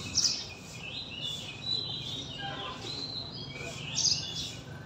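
Small birds chirping and twittering, many short high calls, with the loudest chirps just after the start and again about four seconds in.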